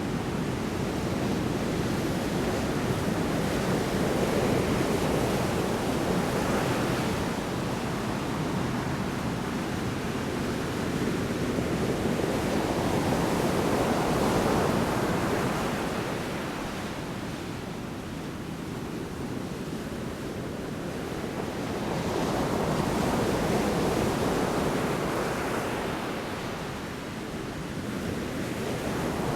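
Large storm waves breaking on a shore: a dense, continuous rush of surf that swells and eases about every nine to ten seconds.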